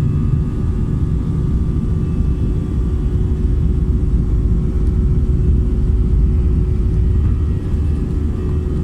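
Steady airliner cabin noise aboard an Airbus A319-100: a loud low rumble with a steady mid-pitched hum.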